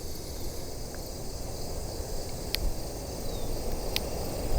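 Steady rumble of a jet airliner's engines on its takeoff run, with insects buzzing steadily in the background. Two short clicks, about halfway through and near the end.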